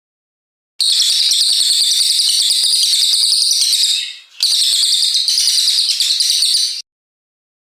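Cililin coklat songbird singing long, fast bursts of high chattering notes, two unbroken runs of about three and two and a half seconds separated by a brief gap, each starting and stopping abruptly.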